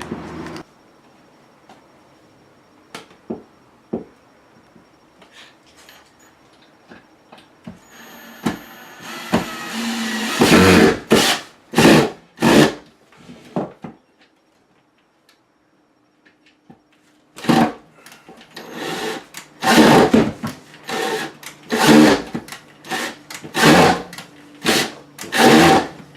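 Power drill run in short repeated bursts, about one a second, driving into a hard old redwood wall stud, in two runs separated by a few seconds' pause after some light knocking. The wood is so hard that the drill struggles to bite.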